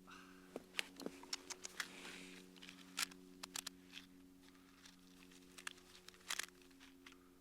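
Wood fire crackling: burning wood snapping and popping in irregular sharp clicks, over a faint steady hum.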